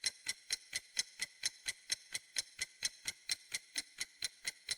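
Steady clock-style ticking, about four even, crisp ticks a second: a quiz countdown-timer sound effect.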